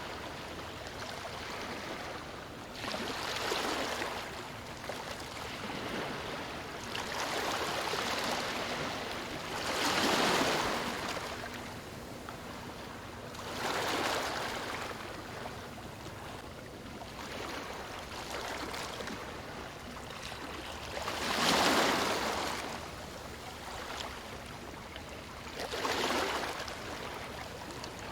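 Sea waves breaking and washing up a beach, with a swell of rushing water every few seconds over a constant wash, the strongest about a third of the way in and again about three quarters through.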